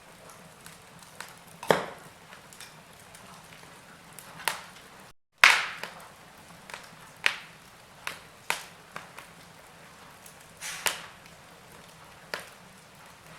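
Wood fire in a fireplace crackling, with sharp irregular pops every second or so over a soft hiss. The sound cuts out for a moment about five seconds in, and the loudest pop follows.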